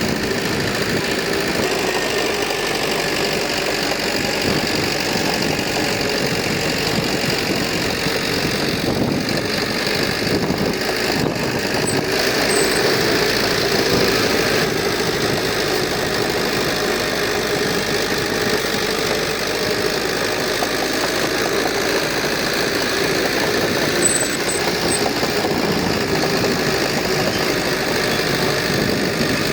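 Heavy construction machinery's diesel engine running steadily, a little louder about halfway through.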